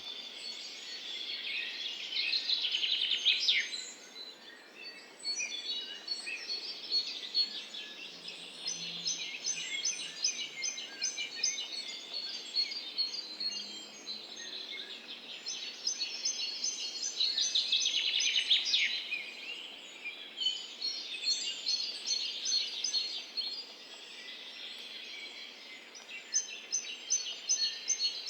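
Songbirds singing in a forest: several birds, with quick chirps, repeated rapid high trills and a few bright downward-sliding phrases.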